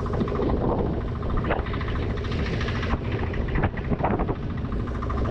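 Small fishing boat's engine running steadily, with a few short knocks scattered through it.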